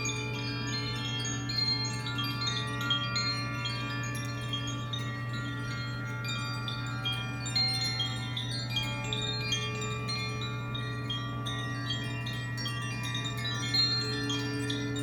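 Chimes ringing in a continuous shimmer of many small high struck notes over a steady low drone and sustained ringing tones.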